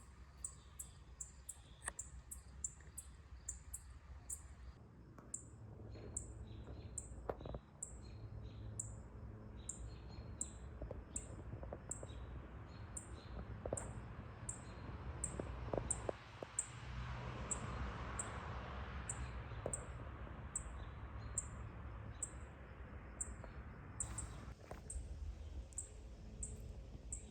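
A bird repeating a short, high, thin call note at an even pace, about once every second or faster, over a low outdoor rumble. A soft rushing hiss swells up through the middle and fades away later on.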